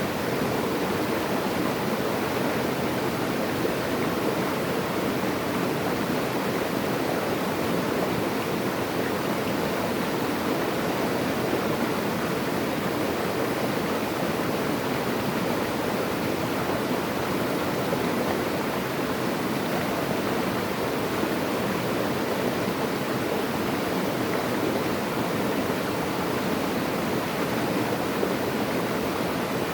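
Running water, such as a stream or small waterfall, making a steady, even rush with no change in level.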